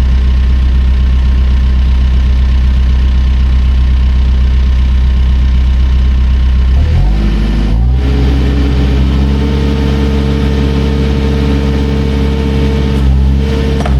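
Backhoe engine running steadily at low speed, then revved up about seven seconds in and held at the higher speed.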